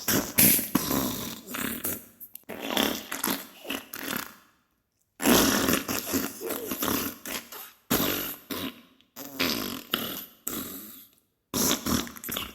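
Diarrhea sound effect: a run of sputtering fart bursts, broken by two short pauses, one a little under halfway and one near the end.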